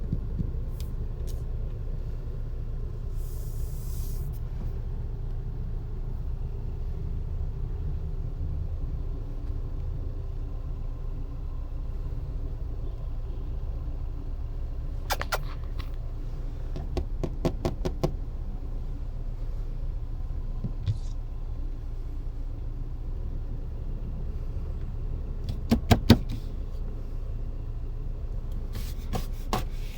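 Steady low car rumble heard from inside the cabin. Scattered sharp clicks and taps sound over it: a run of them about halfway through, and the loudest few a little before the end.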